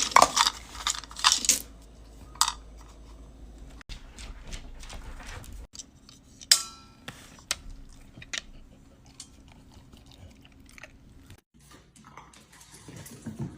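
A cat crunching dry food: a run of short, crisp chewing clicks, with one sharp ringing clink about six and a half seconds in.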